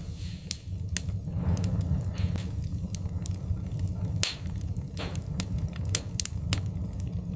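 Wood fire burning in a fireplace, crackling and popping with sharp irregular snaps over a steady low rumble of the flames.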